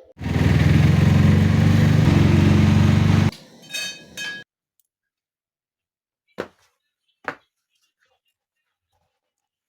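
A loud, steady motor hum runs for about three seconds and cuts off suddenly, followed by a few brief high tones and then two sharp clicks about a second apart.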